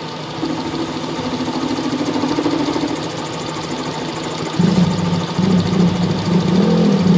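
A machine runs steadily with a low hum, and it gets louder about four and a half seconds in.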